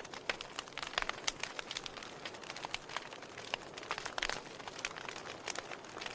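Fire burning and crackling, with many irregular sharp pops over a steady soft hiss.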